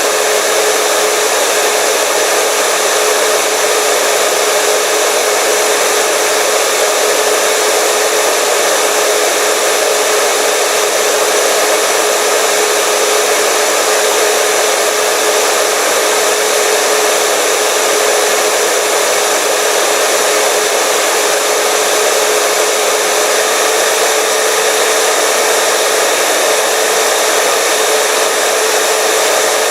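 Hair dryer running continuously at a steady speed: a constant blowing whoosh with a steady motor hum.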